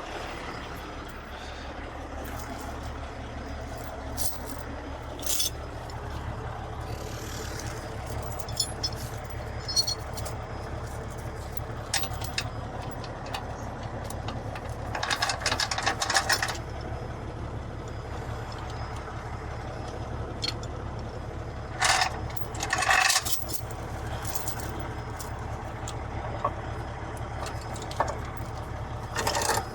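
Heavy tow truck's diesel engine idling steadily, with scattered metallic clanks and rattles of chains and rigging, a longer rattling run about halfway through.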